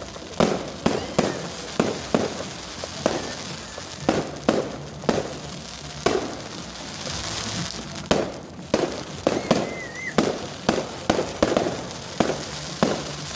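Fireworks going off in quick, irregular succession: a string of sharp bangs and pops with crackling between them.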